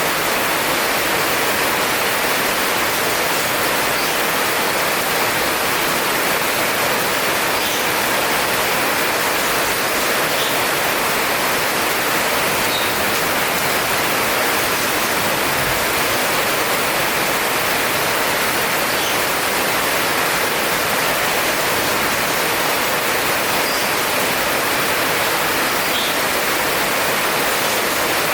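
Heavy rain falling in a steady, unbroken hiss, with a few faint drip-like ticks in it.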